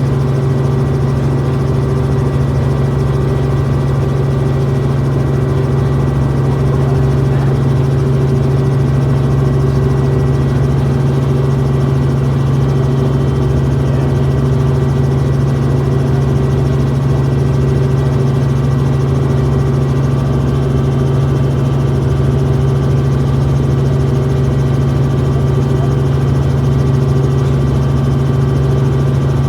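Helicopter running, heard from inside the cabin: a loud, constant low hum with a few steady higher tones above it.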